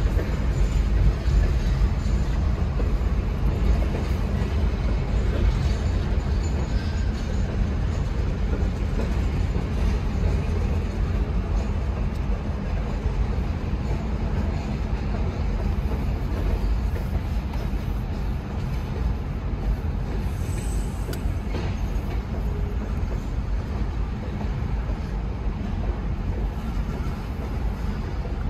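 Freight train of boxcars rolling steadily past a road crossing: a continuous rumble of wheels on rail, with a brief high wheel squeal about two-thirds of the way through.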